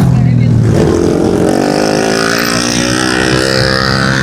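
Several 110cc pit bike engines running together during a race, their pitches overlapping and some rising as the riders get on the throttle.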